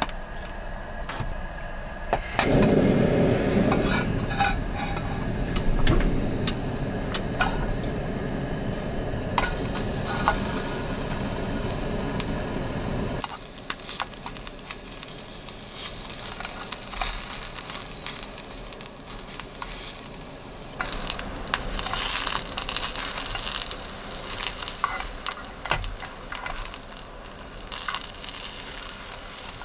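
Eggplant slices frying in hot oil in an aluminium mess tin on a small gas stove. A loud sizzle starts about two seconds in as the slices go into the oil and drops sharply about thirteen seconds in. It then goes on more quietly, with light clicks of chopsticks against the tin as the slices are turned.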